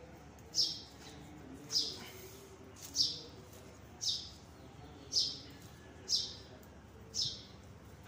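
A bird repeating one short, high chirp that falls in pitch, about once a second, seven times.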